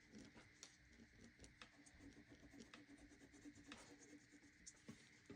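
Faint scratching and light irregular ticks of a black Sharpie permanent marker being drawn over lines on paper.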